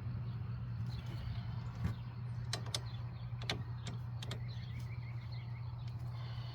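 Scattered sharp metallic clicks of tools and parts being handled during work on a car's front wheel hub, most of them between about two and four and a half seconds in, over a steady low hum.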